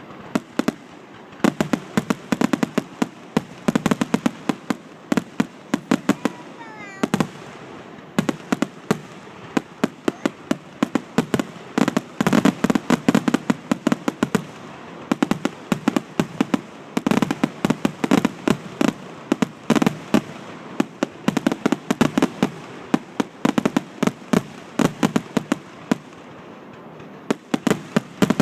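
Fireworks finale barrage: a rapid, continuous string of aerial shell bursts and reports, coming in heavier volleys, with a brief whistle gliding in pitch about seven seconds in.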